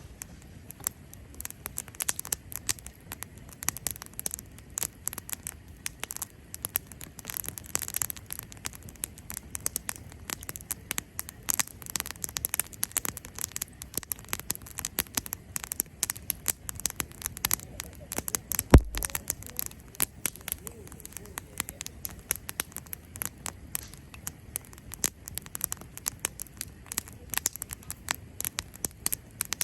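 Cherry-wood campfire crackling: a dense, irregular stream of small snaps and pops, with one sharp, much louder pop about two-thirds of the way in.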